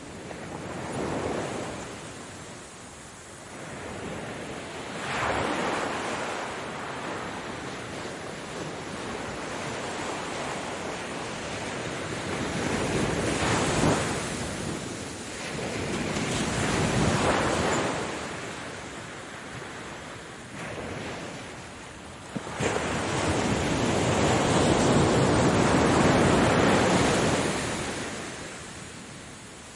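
Ocean waves breaking and washing on the shore in repeated swells, each surge rising and falling, the longest and loudest about three quarters of the way through. Some wind noise on the microphone.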